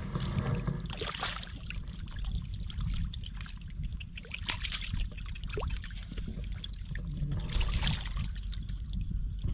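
Shallow floodwater sloshing and splashing, with scattered small clicks and two louder splashy bursts, about a second in and near the end, over a steady low rumble.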